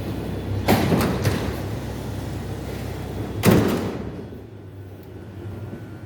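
Metro train's sliding doors banging shut, two loud knocks about three seconds apart, over a steady low hum.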